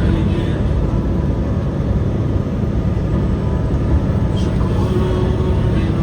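A truck on the move: steady, loud, low engine and road noise with no break.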